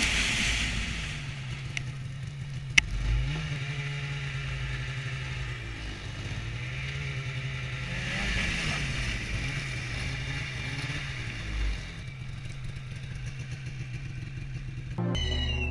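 A motor vehicle's engine running steadily, its revs rising and falling a few times, with a sharp click about three seconds in.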